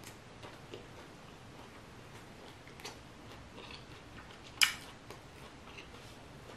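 Close-miked chewing with the mouth closed: faint wet mouth clicks, and one sharp, louder click about four and a half seconds in.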